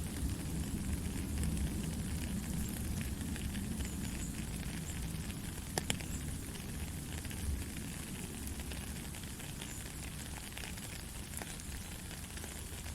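Steady rainfall on rainforest foliage, a continuous hiss with scattered drip-like clicks and one sharper click about six seconds in.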